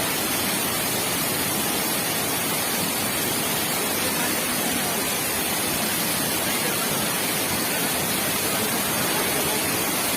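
Steady, even rushing of fast-flowing floodwater.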